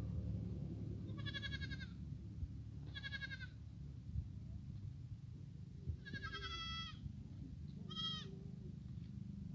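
Goats bleating: four separate high, quavering bleats, the third the longest, over a steady low background rumble.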